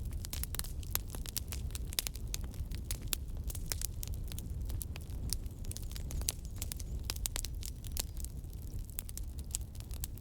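Wood fire in a fireplace crackling: many irregular sharp snaps and pops over a steady low rumble.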